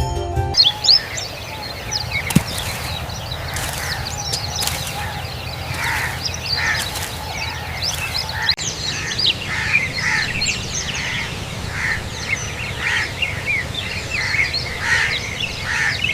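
Many birds chirping and calling together, short overlapping calls, over a steady low background noise.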